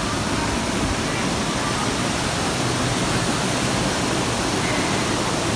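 Steady rushing noise of fast-flowing mountain river water.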